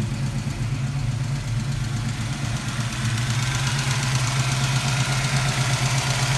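Ford 5.0-litre (302) small-block V8 idling steadily, growing a little louder about three seconds in.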